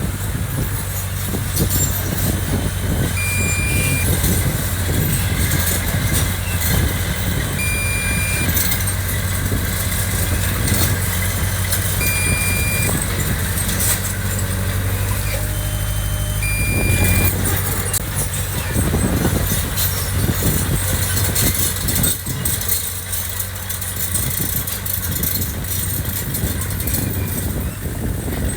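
Diesel engine of heavy earthmoving machinery running steadily, with a short, high beep repeating about every four seconds through the first half.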